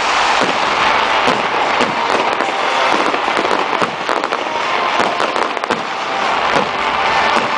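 Fireworks crackling in a dense, continuous barrage of many small rapid cracks and pops.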